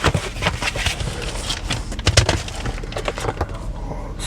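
Plastic packaging crinkling and crackling as it is handled, with one louder crack about two seconds in.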